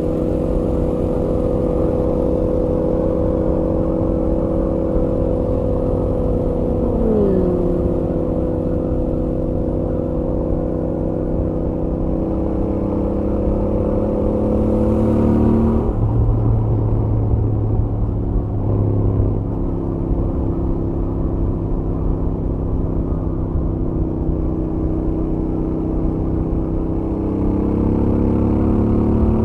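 Royal Enfield Interceptor 650's parallel-twin engine running at highway speed, heard from the rider's helmet with wind rush underneath. The engine note holds steady, dips briefly about seven seconds in, changes to a lower drone for a few seconds in the middle, then climbs again near the end as the bike accelerates.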